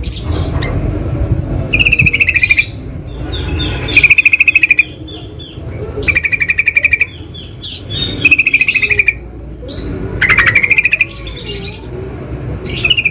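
Yellow-vented bulbul calling in the wild: a short, rapid, bubbly phrase repeated about every two seconds, six times, with softer calls between, over a low steady background.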